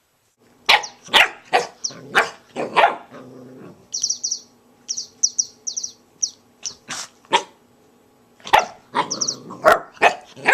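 Puppy barking in short, sharp yaps, a quick run of them in the first few seconds and another near the end.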